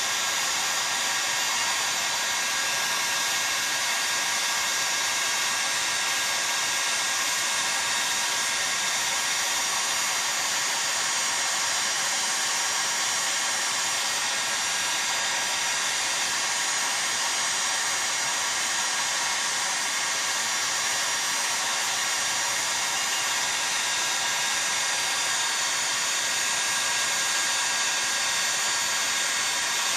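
Heat gun blowing steadily, heating a chainsaw crankcase so it expands for bearing and oil-seal installation.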